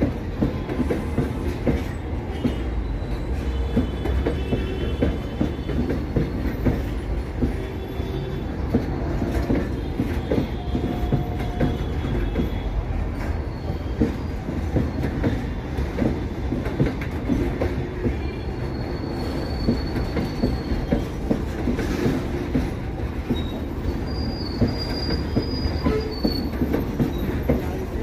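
Freight train container wagons rolling past close by: a steady rumble with frequent wheel clatter over rail joints. Now and then the wheels give brief high squeals.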